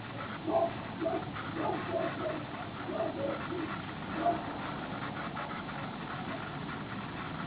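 Short animal calls repeated at irregular intervals, about a dozen in all, over a steady background hiss.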